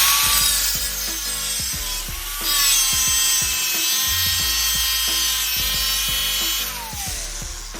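Electric grinder spinning up to speed and cutting through sheet metal, harsher and louder from about two and a half seconds in, then winding down near the end. Background music plays underneath.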